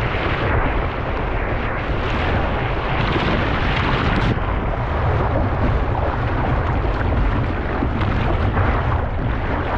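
Loud, steady rushing of river rapids, with a deep rumble underneath.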